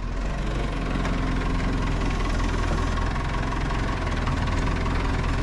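An engine idling steadily, a constant low drone.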